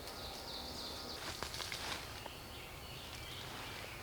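Faint outdoor ambience: a high, steady trill for about the first second, then a few soft rustles.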